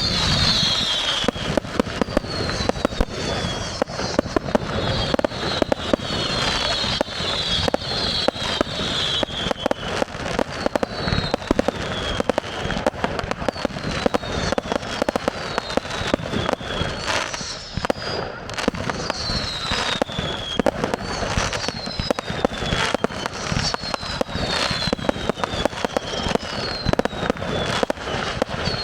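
Fireworks display going off continuously: rapid bangs and crackling, with many short whistles falling in pitch throughout.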